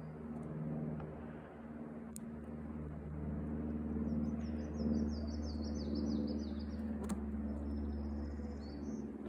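A steady low drone like a distant engine, with a songbird singing a quick run of short descending notes in the middle.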